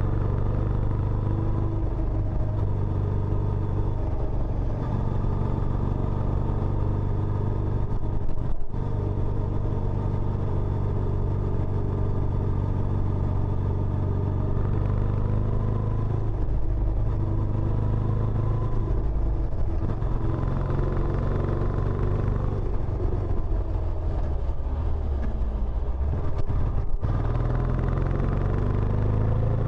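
Benelli Imperiale 400's air-cooled single-cylinder engine running through its stock exhaust, a steady low exhaust note whose pitch shifts now and then. The sound breaks off for an instant twice, about 9 and 27 seconds in.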